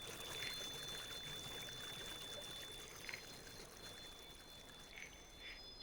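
Faint flowing water, like a small stream trickling, with a thin high steady tone held over it; it fades slightly.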